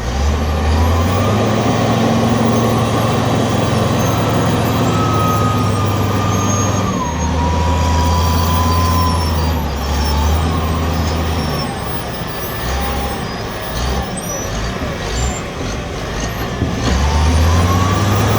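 Michigan 55C wheel loader's diesel engine working, its pitch rising and falling as it revs up and down, with a high whine that glides up and down with it.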